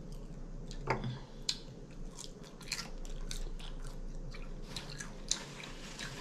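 A person chewing air-fried chicken wing close to the microphone: scattered small clicks and crackles from the mouth. A single low knock about a second in.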